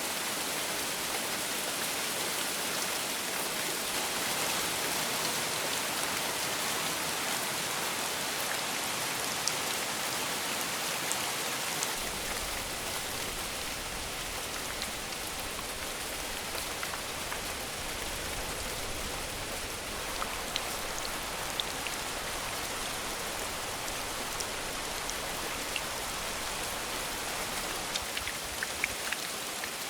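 Steady heavy rain falling on surfaces, with individual drops ticking sharply, more often in the second half. A low rumble joins beneath the rain about twelve seconds in and drops away just before the end.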